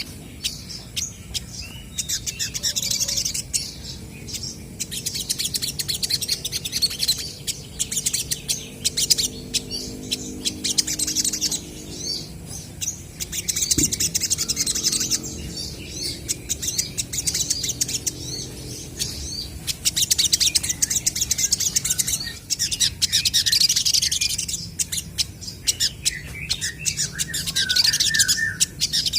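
Olive-backed sunbirds singing: rapid, high-pitched chirping in bursts of a couple of seconds, repeated again and again, over a low steady hum.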